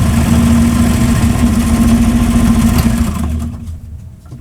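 Electric sewing machine running at speed, stitching through a paper card, with a steady motor hum; it stops about three seconds in.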